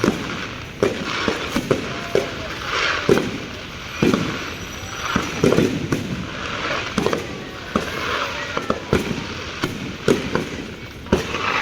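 Fireworks going off: a rapid, irregular string of sharp bangs and pops mixed with crackling.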